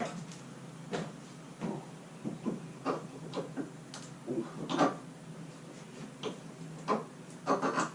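Irregular knocks and clicks of hand-tool work with pincers on nails and wooden boards, some a second or more apart, a few with a short metallic ring.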